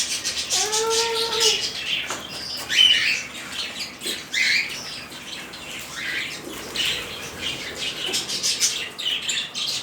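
Pet lovebirds chirping, with short high calls scattered throughout.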